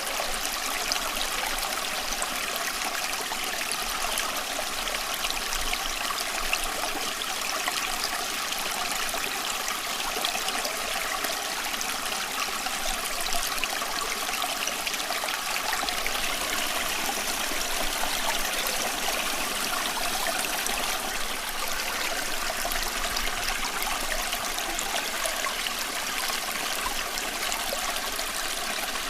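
Running water, steady and unbroken, with a constant fine splashing and trickling.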